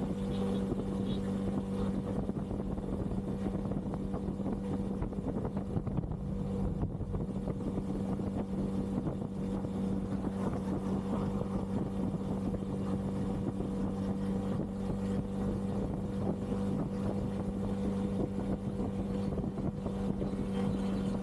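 Bajaj Pulsar N250's single-cylinder engine running at a steady cruising speed, its pitch holding constant throughout, with wind noise on the microphone.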